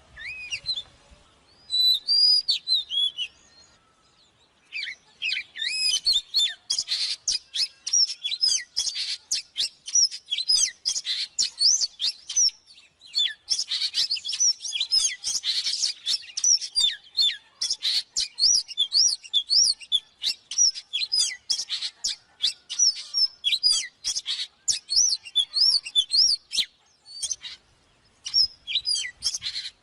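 Oriental magpie-robin singing hard: a fast, varied stream of whistled notes, slurs and chatter. It pauses briefly about four seconds in and again near the end.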